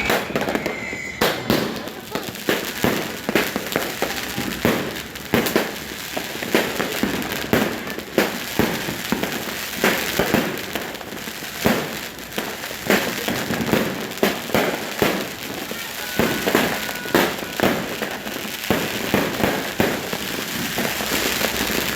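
Continuous barrage of fireworks and firecrackers going off all around, dense irregular bangs and pops with no pause.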